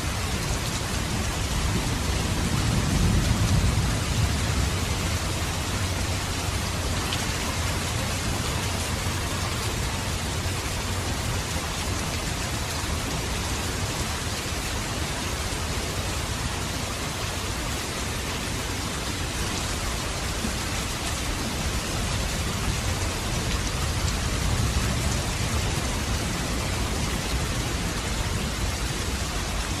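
Steady rain falling, with low rumbles of thunder swelling about three seconds in and again near the end.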